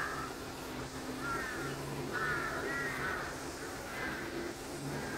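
Birds calling: short calls repeated about once a second, over a low steady hum.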